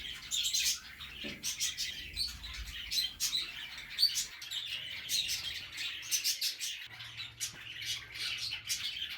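Many budgerigars chirping and chattering together in a steady stream of short, overlapping chirps.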